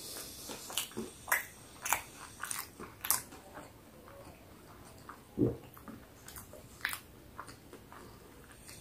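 A man chewing a mouthful of burger close to the microphone: irregular wet mouth clicks and smacks, busiest in the first three seconds, with one duller, lower sound about five seconds in.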